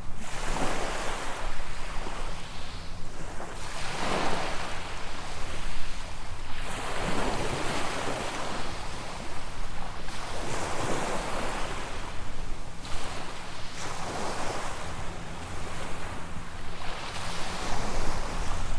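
Small waves breaking and washing up a sandy beach, one wash swelling and fading every two to three seconds. Wind rumbles on the microphone underneath.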